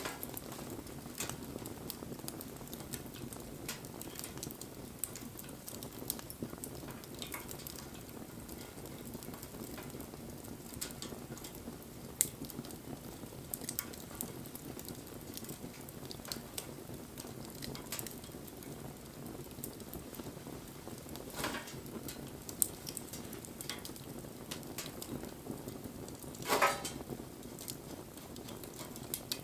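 Wood bonfire burning: a steady low rush of flame with scattered crackles and pops, a sharper pop about twelve seconds in and a brief louder hiss near the end.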